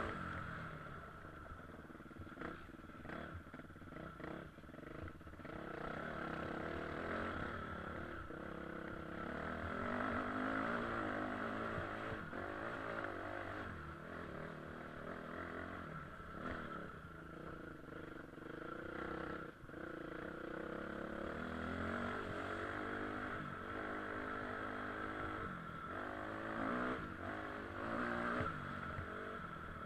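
KTM EXC 250 enduro motorcycle engine being ridden off-road, revving up and dropping back again and again as the throttle opens and closes, with a few knocks and rattles from the bike.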